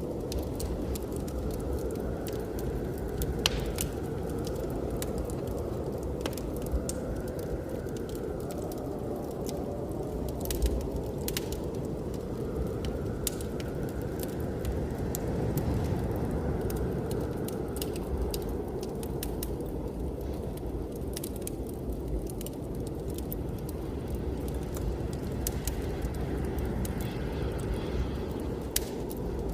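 Wood fire crackling, with scattered sharp pops, over a steady low rumble of snowstorm wind whose higher howl swells and fades every few seconds.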